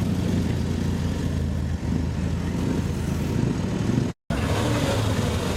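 Steady low rumble of car engines running, broken by a brief gap in the sound about four seconds in.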